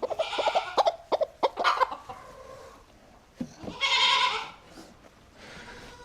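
Hens clucking among short rustles and clicks, then one goat bleat about four seconds in.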